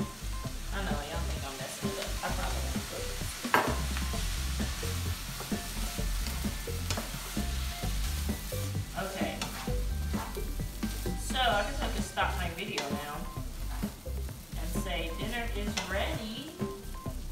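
Vegetable fried rice sizzling in a hot pan as a wooden spatula stirs and scrapes it around, with one sharp knock about three and a half seconds in.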